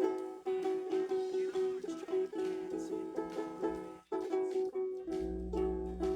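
Acoustic stringed instrument strummed in repeated chords, with a brief break a little after four seconds. A steady low hum comes in about five seconds in.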